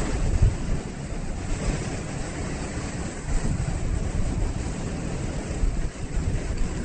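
Ocean surf washing steadily, with wind buffeting the microphone in irregular low rumbles.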